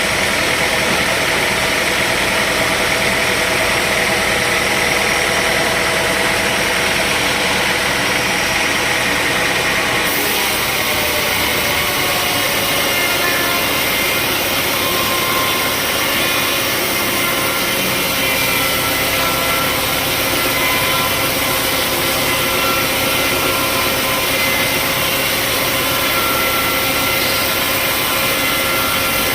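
Sawmill machinery running continuously: a steady engine drone with several held tones, some drifting in pitch. The sound changes abruptly about ten seconds in, then runs on steadily.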